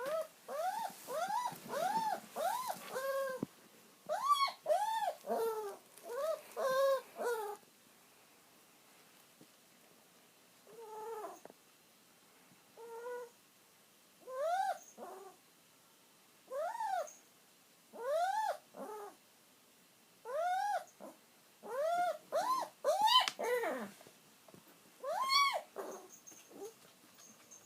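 Pet dog crying with high, whining cries, each rising then falling in pitch: a quick run for about eight seconds, a pause, then single cries every second or two. The dog is crying while it waits for its owner to come home.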